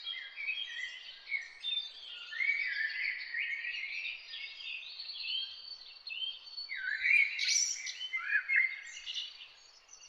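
A chorus of several songbirds singing at once: overlapping chirps, trills and short gliding notes with a faint hiss beneath, the whole dropping away near the end.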